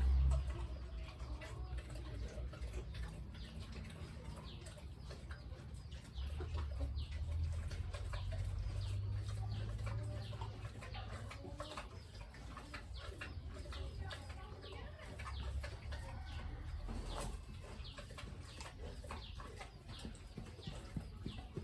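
Chickens clucking and calling in many short, quick notes, over a low rumble.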